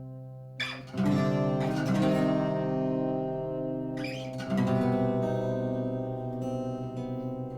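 Acoustic guitar music: plucked and strummed chords ringing on, with fresh strums about a second in and again about four seconds in.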